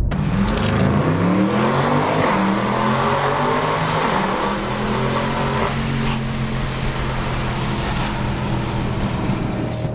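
BMW M550i xDrive's twin-turbo V8 running through a Remus exhaust. Its pitch rises over the first two seconds or so, then holds steady.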